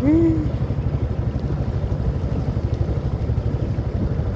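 Small fishing boat's engine running steadily with a fast, even chugging. A short vocal exclamation sounds right at the start.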